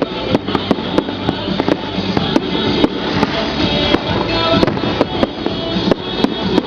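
Rapid, irregular sharp pops and cracks, several a second, over music playing.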